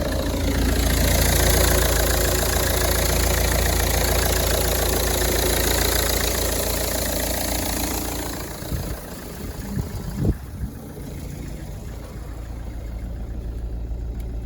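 Ford Focus 2.0 TDCi four-cylinder diesel engine running: it revs up in the first second, holds the higher revs for several seconds, then drops back to idle about eight seconds in. A few thumps follow around nine to ten seconds in, the loudest just after ten seconds, before the engine idles steadily.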